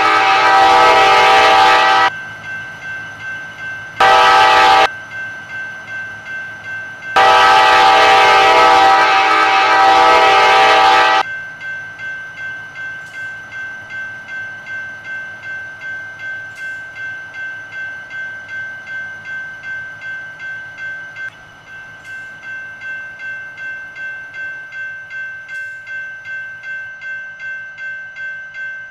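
Diesel locomotive's multi-chime air horn sounding the end of a grade-crossing signal: a long blast ending about two seconds in, a short one near four seconds, then a final long blast of about four seconds. A grade-crossing bell dings steadily and evenly throughout and rings on alone after the horn stops.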